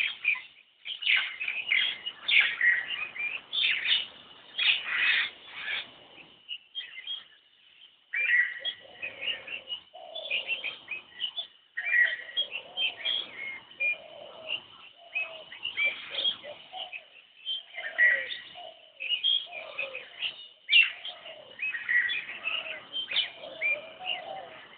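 Birds chirping and calling in a busy, overlapping chorus of short high chirps, with a steady thin high tone underneath. A brief lull comes about seven seconds in, and lower calls mix in after it.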